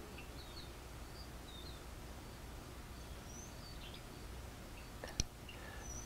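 Faint bird chirps from outside, short scattered calls over a steady low hum, with one sharp click about five seconds in.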